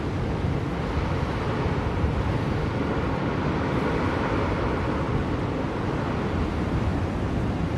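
Blizzard wind blowing steadily, a deep rushing noise that swells slightly about halfway through.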